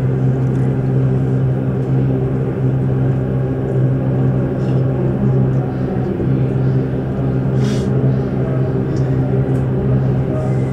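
Steady low hum inside a Keihan 8000 series EMU car standing at the platform, with its onboard equipment running while the train waits. A short hiss cuts in once about three-quarters of the way through.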